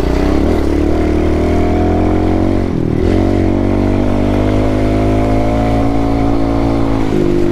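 Pit bike's small single-cylinder four-stroke engine pulling under throttle, its pitch climbing. It drops briefly about three seconds in, climbs again for several seconds, and eases off near the end.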